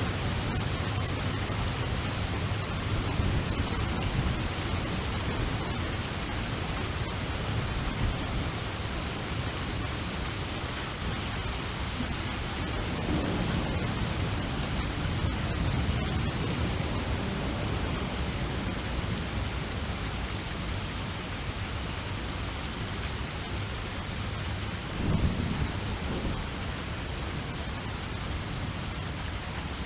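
Steady rain with low rolls of thunder. The rumble swells at the start, again about 13 seconds in, and briefly near the end.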